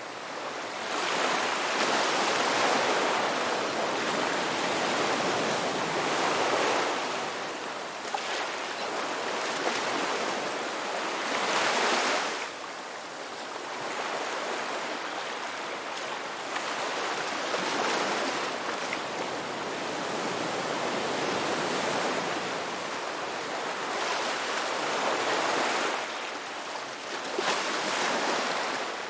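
Ocean waves breaking and washing up a shore in a steady wash of surf, a wave swelling and falling back every few seconds.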